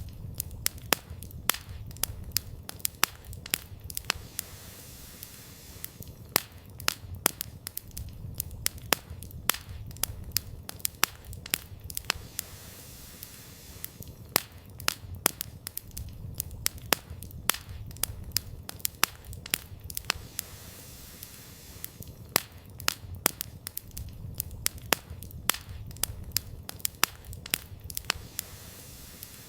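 Campfire of burning firewood crackling, with frequent sharp irregular pops and snaps over a low, steady rumble of the flames.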